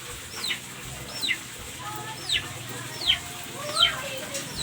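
Chickens calling: a steady run of high, falling peeps, about one every half second, with a few lower clucking calls mixed in.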